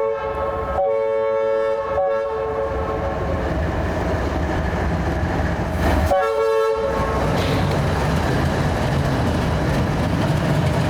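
Freight locomotive horn sounding a chord in two main blasts, the first a long one early on and a shorter one about six seconds in, over the steady heavy rumble and rail clatter of a passing freight train.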